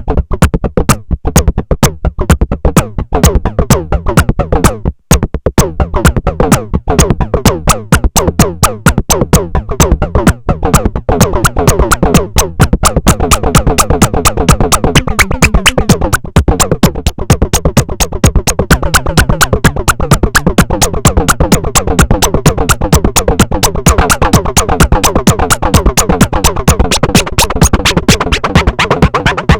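Electronic techno played on a Moog DFAM analogue drum synthesizer and an Arturia MicroFreak synthesizer: a fast, steady sequenced percussion pattern under a repeating synth line, with a brief break about five seconds in.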